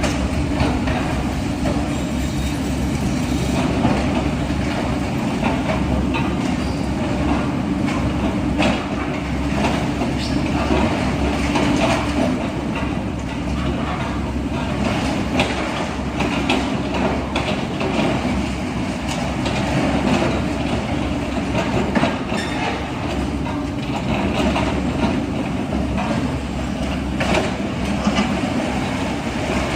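Heavy machinery's diesel engine running steadily, with repeated metallic clanks and rattles throughout.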